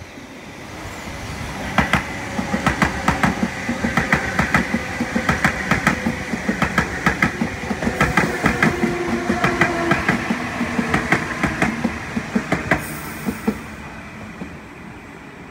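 Sydney Trains double-deck electric passenger train passing at speed. Its wheels clatter over the rail joints in quick groups of clicks over a running rumble that builds about two seconds in and fades near the end.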